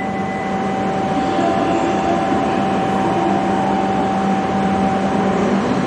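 Tohoku Shinkansen train heard from inside the car: the steady rumble and hiss of the train running, with a steady high whine that stops near the end.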